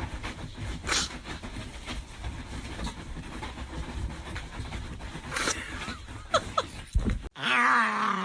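A dog panting over a steady low rumble, with a couple of short pitched sounds near the end.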